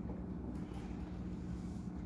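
Steady low electrical hum and room noise, with a faint rustle or two.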